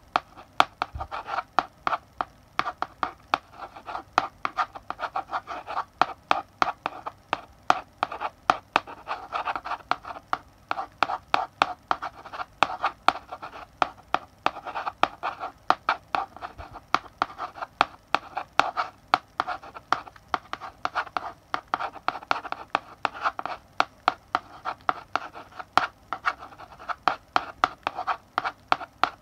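Chalk writing on a blackboard: continuous scratchy strokes punctuated by sharp taps of the chalk striking the board, several a second.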